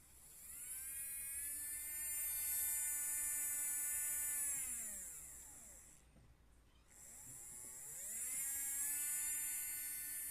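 Small DC hobby motor whining as it spins up and runs, then winds down and stops about halfway through, before spinning up again and running steadily.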